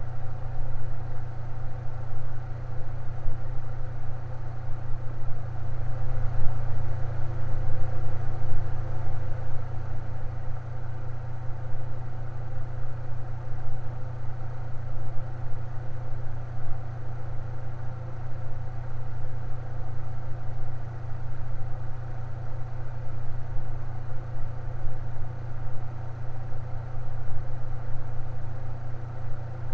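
Electric fan running steadily: an even whoosh over a strong, constant low hum, unchanging throughout.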